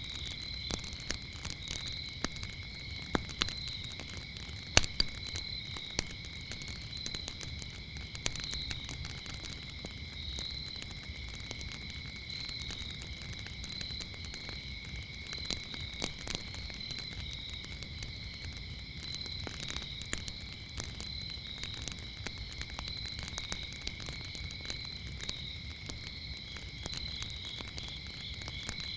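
Wood fire crackling with scattered sharp pops, the loudest about three and five seconds in, over crickets chirping in a steady, high, pulsing trill.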